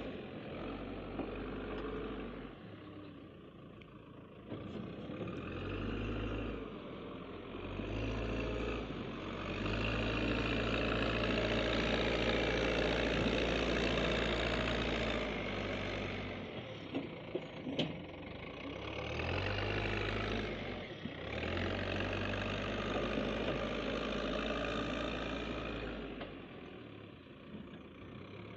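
Diesel engines of a stuck tractor and a backhoe loader running, the revs rising and falling again and again as they work under load. A few sharp clicks come a little past the middle.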